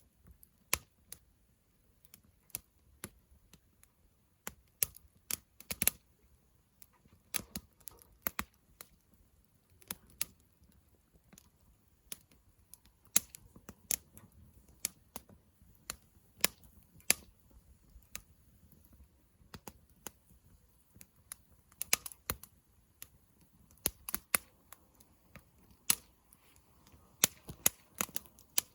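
Wood campfire crackling: irregular sharp pops and snaps, some louder than others, over a faint low rumble from the burning.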